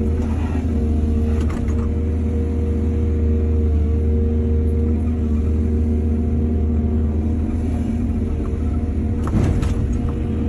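Excavator's diesel engine running steadily under work, with a brief clatter near the start, another about a second and a half in, and a louder clatter about nine seconds in.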